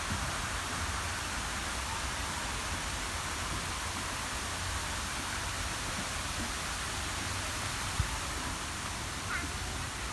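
Steady rushing of water falling from an artificial waterfall, with a single short knock about eight seconds in.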